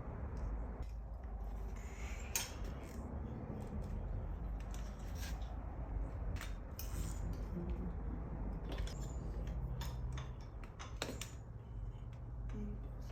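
Metal tools and parts clinking and tapping in scattered sharp clicks, over a steady low hum.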